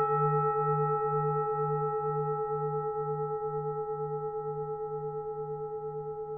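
A struck singing bowl ringing out and slowly fading, several tones sounding together, the lowest one wavering about three times a second.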